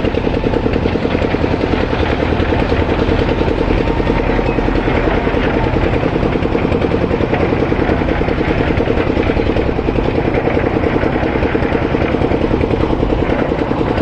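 Heavy diesel engine running steadily with an even, fast chugging pulse, from the backhoe loader or tractors at work.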